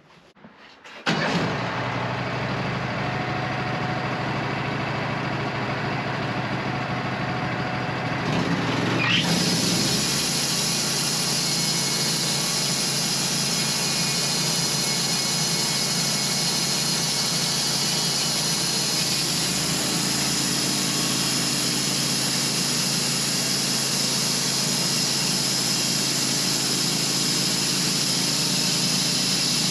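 Wood-Mizer LT15 sawmill starting up about a second in and running steadily. About nine seconds in the sound grows louder with a short rising whine, and a high hiss joins as the band blade comes into play, running on steadily.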